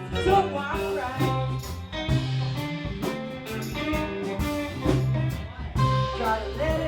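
Live band playing blues-rock, an electric guitar over a steady bass line and drums, with bending guitar notes throughout.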